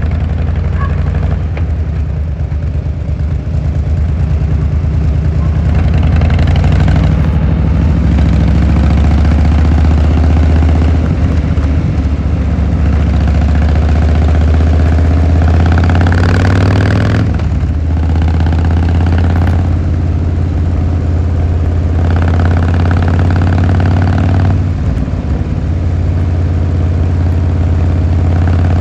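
Harley-Davidson Fat Boy Lo's V-twin engine running loud through its exhaust, its pitch rising and falling with the throttle several times, with a sudden drop about two-thirds of the way through.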